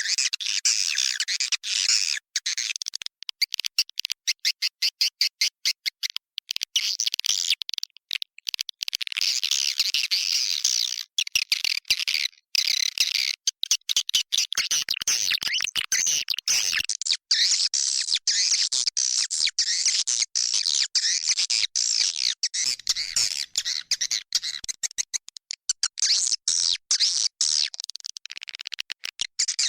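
Swiftlet lure call: many swiftlets chittering and twittering in a dense, high-pitched stream, broken by many short gaps, with a stretch of fast, evenly spaced chirps a few seconds in.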